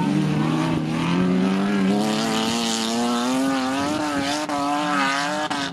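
Banger racing cars' engines running hard around an oval track, one engine note climbing steadily in pitch as it accelerates.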